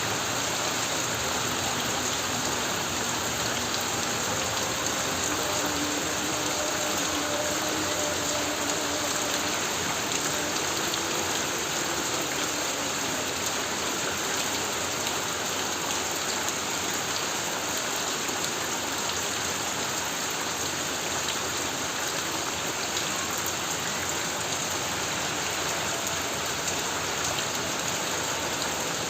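Heavy rain falling steadily on a corrugated tin roof, a dense, even hiss at constant level.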